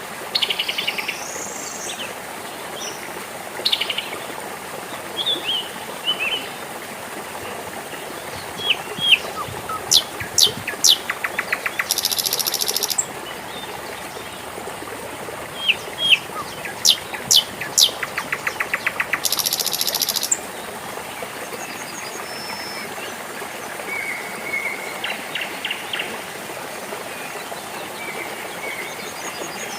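Water trickling steadily in a small stream, with birds singing over it. Twice, one bird sings a phrase of sharp rising whistles that ends in a buzzy trill and a harsh rasp; softer calls follow near the end.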